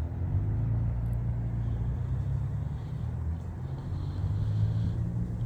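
Truck engine running with a steady, low hum.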